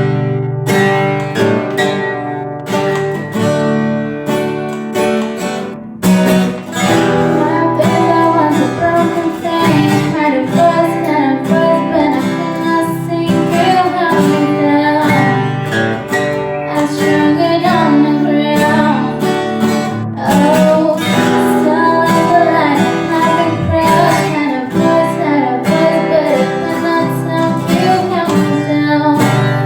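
Acoustic guitar strummed in chords, with a singer's voice coming in about six seconds in and continuing over it.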